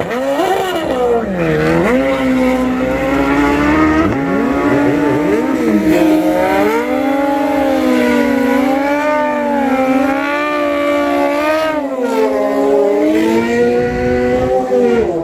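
Two inline-four sport-bike engines, a Suzuki GSX-R1000 and a Kawasaki ZX-10R, revving up and held high with the pitch wavering. They briefly dip about a second and a half in, and drop away at the very end.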